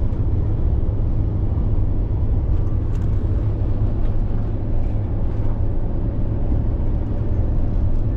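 Steady low road and engine rumble of a vehicle driving at cruising speed, heard from inside the cabin.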